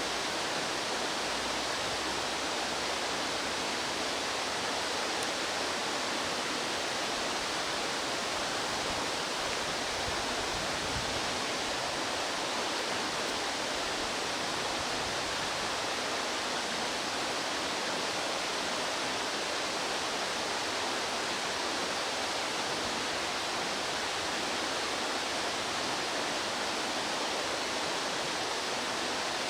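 Steady, unbroken rush of a fast-flowing mountain stream, with no bird calls standing out above it.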